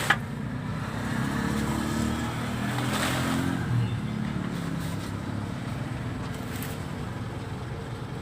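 A motor vehicle engine running steadily, a low hum that swells a little a couple of seconds in, with one sharp click right at the start.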